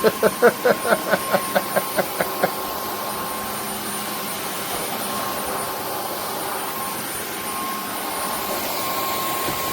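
Dreame H12S wet-dry vacuum mop running steadily, a motor hiss with a steady whine. Over the first couple of seconds a quick run of short pitched pulses, about four a second, fades out over it.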